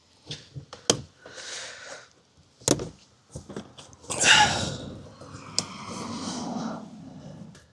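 Sharp clicks and knocks of a flathead screwdriver prying at the plastic interior panel of a car door, twice in the first three seconds. A loud breath comes about four seconds in.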